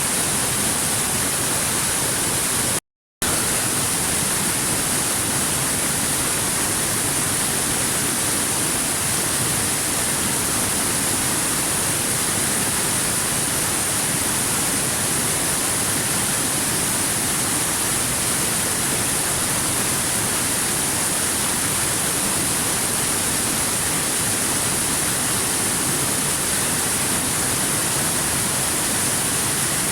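Waterfall: steady rushing water, cutting out completely for a moment about three seconds in.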